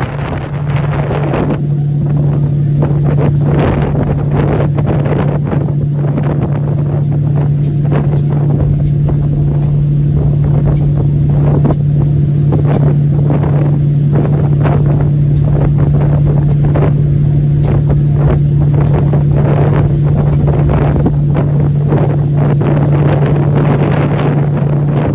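Boat engine running with a steady low drone, with wind buffeting the microphone in irregular gusts.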